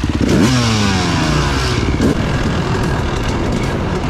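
250cc dirt bike engine revving up sharply, then falling in pitch over about a second and a half before running on steadily.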